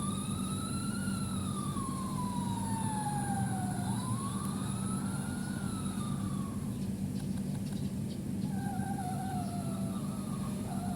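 Recorded fire engine siren played from a children's sound board book's small speaker, wailing slowly up and down twice over a steady low engine rumble, then trailing off weaker near the end.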